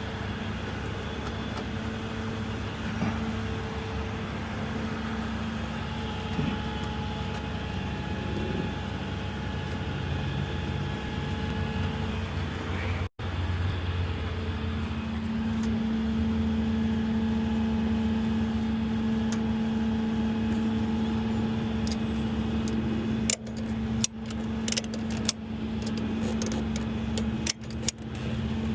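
A vehicle engine running steadily with an even hum. Near the end comes a run of sharp clicks or knocks.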